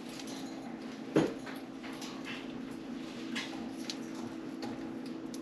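Budgerigars chattering faintly in short high calls, with one sharp tap about a second in, over a steady low hum.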